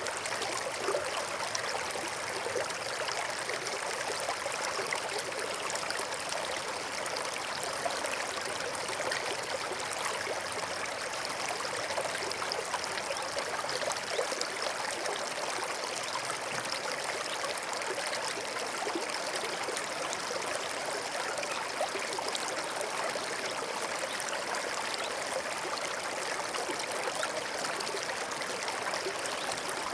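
A small stream running and trickling over stones, a steady babble of water.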